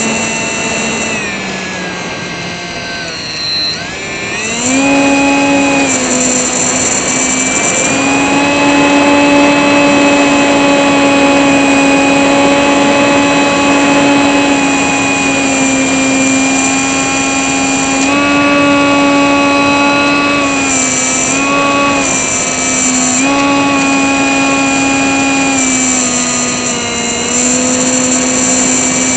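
Whine of a small brushless motor (RCX NK1103, 10000 KV) spinning a 3-inch propeller, heard from a camera on the aircraft itself. The pitch sags low about two to four seconds in as the throttle comes back, rises again, then holds steady with several brief steps up and down as the throttle is changed.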